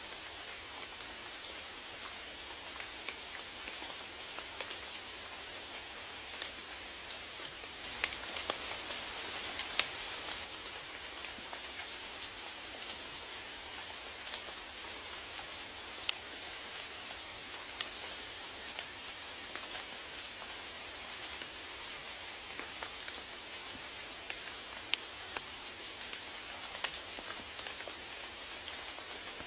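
Steady rain falling, an even hiss with scattered sharper drops tapping close by, swelling slightly for a couple of seconds about eight seconds in.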